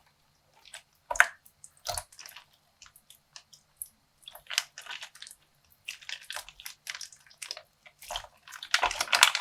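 Wet squishing and dripping of a plastic bag of slime and coloured water being squeezed and opened by hand, in scattered short bursts that grow denser and louder near the end.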